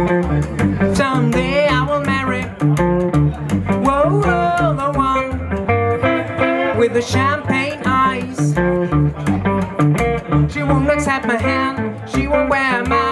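Live blues-rock band playing an instrumental passage: guitar lines over bass and a steady drum beat.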